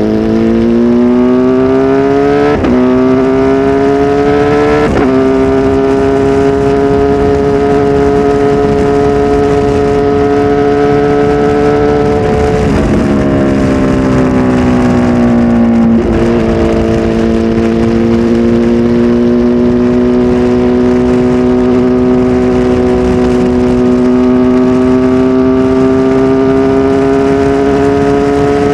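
Kawasaki Z H2 SE's supercharged inline-four, flash-tuned with a full exhaust system, pulling through two upshifts early on. It then holds steady revs, falls off as the throttle closes, and climbs gradually again.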